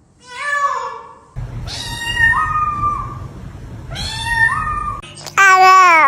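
Domestic cats meowing in four separate calls. There is a short meow first, then two meows whose pitch steps up partway through, against a low background hum. Near the end comes a loud, long call that falls in pitch.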